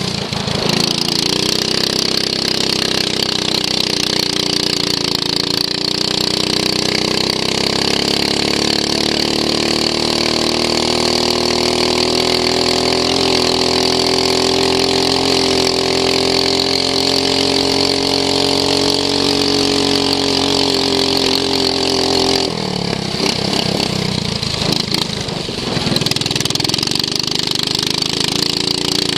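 Racing lawn mower's engine at high revs heard from onboard, its pitch rising and easing slowly. About three-quarters of the way through the revs drop sharply for a few seconds, then build again.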